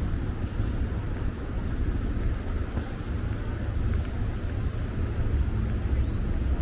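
Steady low rumble of city street traffic, with a faint thin high-pitched tone for about two seconds in the middle.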